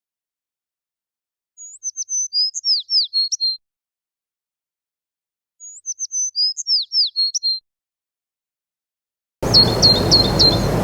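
A songbird singing the same short chirping phrase twice, each about two seconds long, with dead silence between. About nine seconds in, a steady outdoor hiss comes up with a quick run of chirps.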